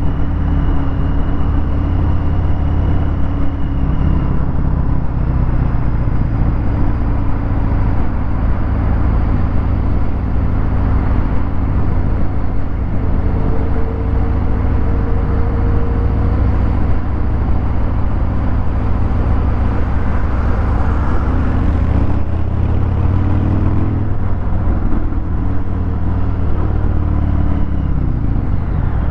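Harley-Davidson Fat Bob 114's Milwaukee-Eight 114 V-twin running through a Vance & Hines Hi-Output 2-into-1 exhaust, riding in slow traffic. The engine note holds steady, then rises and falls in pitch with the throttle over the last several seconds.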